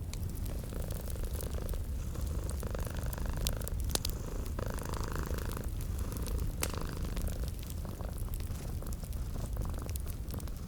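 Domestic cat purring steadily, a continuous low rumble, mixed with a wood fire crackling: scattered sharp pops and snaps.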